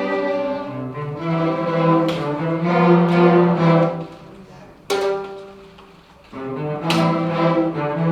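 Chamber orchestra playing held, bowed string notes with a low cello and bass line, in phrases broken by two short quieter gaps about four and six seconds in.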